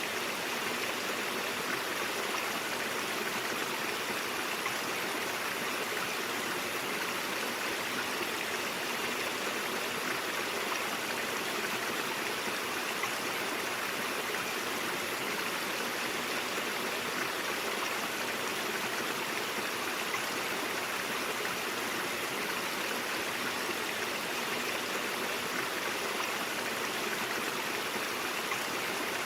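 Stream water flowing and babbling in a steady, unbroken rush.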